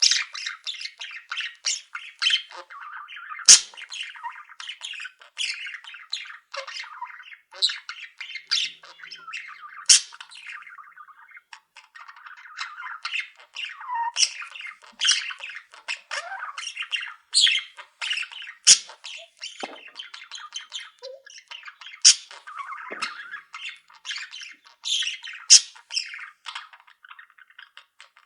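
A flock of pet budgerigars and other small cage birds chattering and squawking without a break, with loud sharp calls standing out every few seconds.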